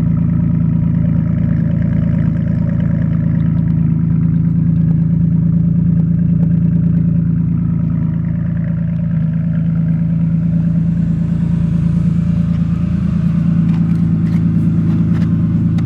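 1998 Mercury Sable GS's 3.0-litre V6 idling steadily through a straight-piped exhaust with no mufflers: 3-inch pipe from the second catalytic converter back to a 4-inch tip. A loud, even, low drone.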